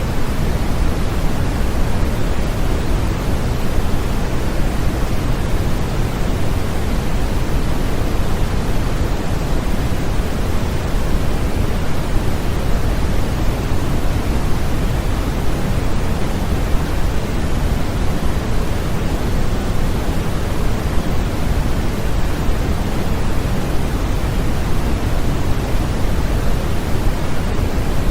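Continuous synthetic white-noise sleep-aid track: a steady, unbroken hiss, heavier in the low end than in the highs.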